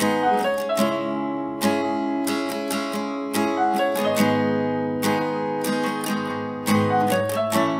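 Acoustic guitar strumming and picking chords, with a strike every half second or so.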